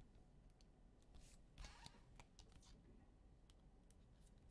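Near silence with faint clicks and a brief rustle of trading cards being handled, around a second and a half in.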